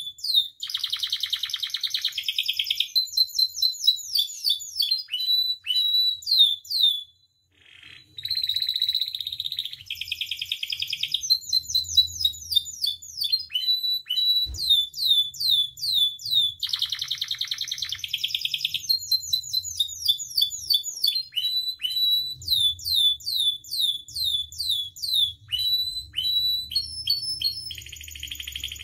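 Domestic canary singing a long, full song: fast runs of repeated falling whistled notes alternating with buzzy rolling trills, with a short break about seven seconds in. This is the rich, continuous canary song used as a tutor and trigger recording for other canaries.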